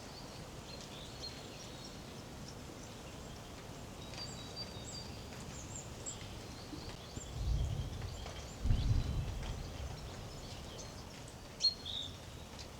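Small birds chirping and calling over a steady background hiss, with two low thumps a little past halfway.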